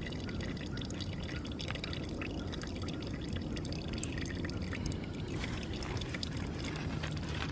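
Engine oil trickling and dripping steadily into a drain pan under a KTM 690 with its drain plugs and filter covers open.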